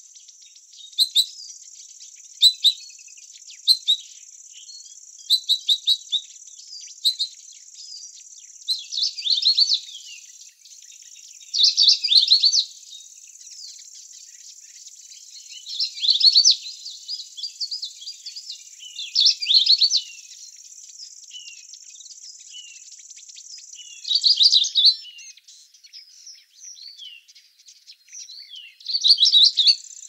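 A songbird sings in short chirps at first, then in phrases about a second long every three to four seconds. Under it runs a steady high insect trill that stops about 25 seconds in and comes back near the end.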